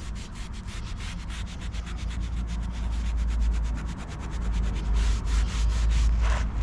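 Soft paintbrush brushed back and forth across brick faces and joints, sweeping off dry mortar crumbs in quick, even strokes, several a second, over a steady low rumble.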